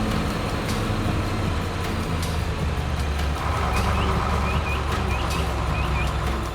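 A heavy vehicle's engine running steadily, with a few short high chirps over it midway.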